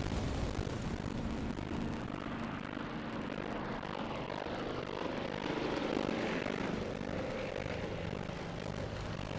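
Propeller aircraft engines droning steadily, with a sweep in pitch about midway as a plane passes.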